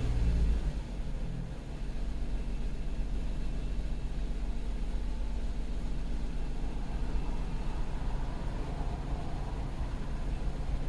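A 2010 Chrysler Sebring's 2.7-litre V6, just started, settling about a second in to a steady idle. The cam/crank position relearn is running while it idles.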